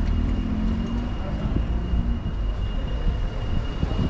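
A vehicle engine running with a steady low rumble, with people talking in the background and a faint steady high whine.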